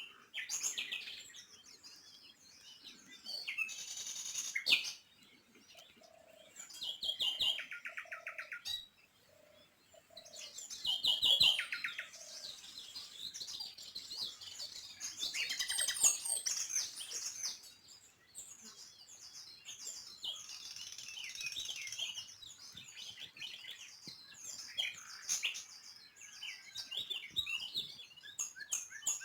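Small songbirds chirping and twittering, many short high calls overlapping, with two quick rapid trills partway through.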